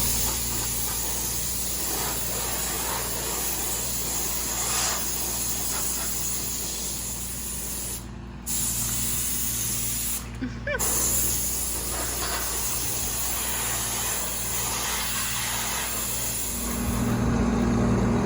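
Compressed-air blow gun hissing steadily, cut off twice briefly near the middle, over a steady low machine hum.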